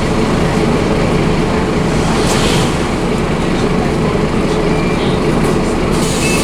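Scania DC9 five-cylinder diesel engine of a Scania OmniCity double-decker bus being driven hard, a loud steady drone with road noise that holds level throughout.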